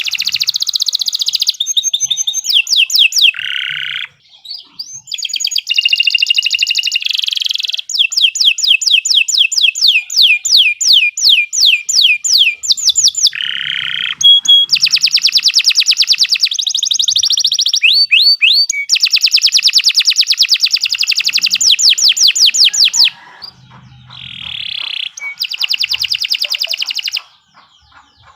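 Domestic canary singing a long, continuous song of rapid high-pitched trills, one run of repeated notes following another, with brief pauses. The song stops near the end.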